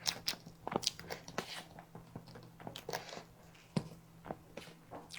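Close-miked chewing and mouth sounds of a person eating grape cake: irregular soft, wet clicks and smacks, busier in the first second or so, then sparser.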